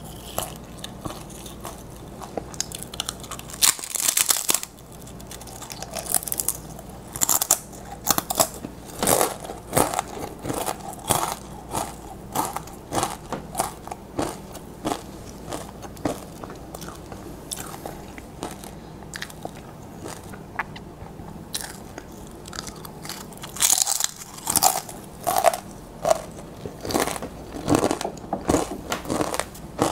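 Tortilla chips dipped in cheese sauce being bitten and chewed close to the microphone: a steady run of crisp crunches, with a few louder bites, one about four seconds in and more from about 24 s on.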